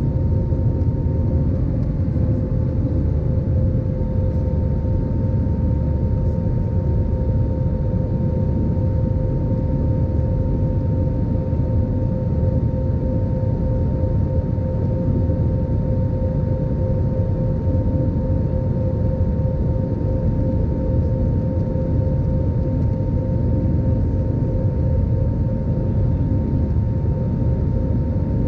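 Airbus A320 jet engines running steadily: a dense low rumble with a steady two-note whine above it.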